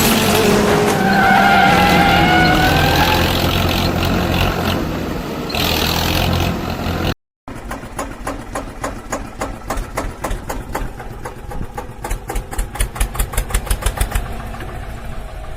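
Vehicle engine sound effects: a heavy engine running with a wavering higher whine over it in the first half, then, after a brief dropout about seven seconds in, a fast, even chugging of an engine.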